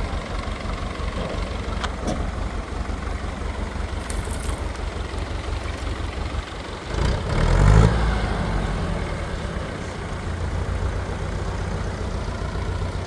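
A motor vehicle's engine running at idle with a steady low rumble, rising briefly in pitch and loudness about seven seconds in, as if revved, then settling back to idle.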